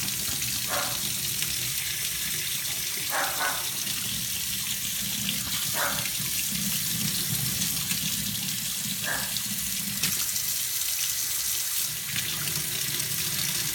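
Faucet running steadily, turned fully to hot, though the water has gone cold: the water heater is not delivering hot water.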